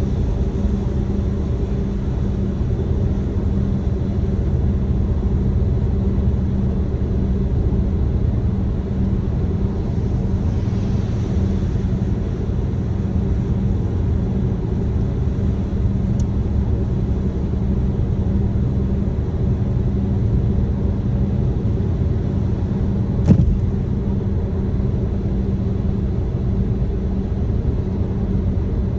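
Steady road and engine rumble heard from inside a moving car's cabin at an even cruising pace, with one sharp click about 23 seconds in.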